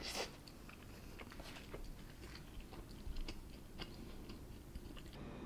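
A person biting into and chewing a bulgogi burger on a soft bun, close to the microphone: a louder bite right at the start, then scattered small chewing clicks.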